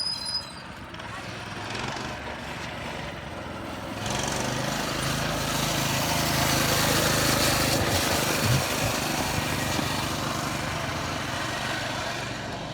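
Small dirt bike engine running at a steady pitch, growing louder about a third of the way in, loudest in the middle with a brief blip of throttle, then slowly fading as the bike moves away.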